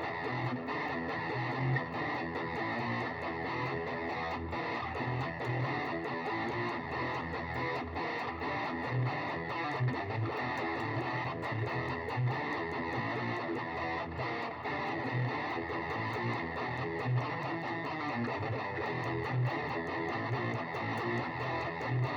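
Electric guitar played through an overdrive pedal, its distorted tone filling the whole stretch with a steady level and low notes recurring.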